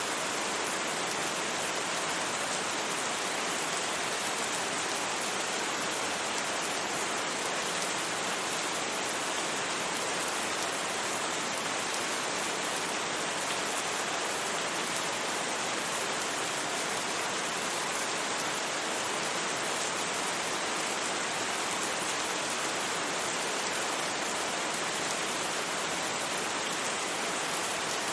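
Steady rain falling, an even hiss with no distinct drops standing out and no thunder.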